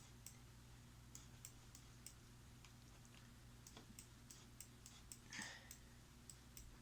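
Near silence: faint, irregular clicks at the computer, over a low steady hum, with a soft rustle about five seconds in.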